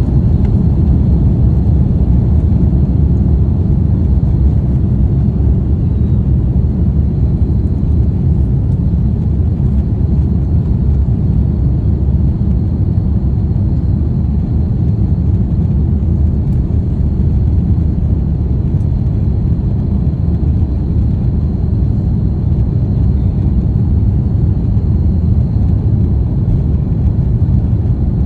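Steady low rumble of an Airbus A330 airliner's jet engines during takeoff, with a faint, steady high whine over it.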